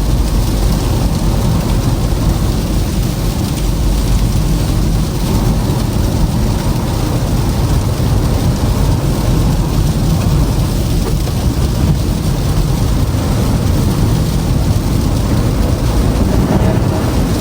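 Steady low rumble of a car driving on a snowy, icy road: tyre and road noise with the car running, no distinct engine note.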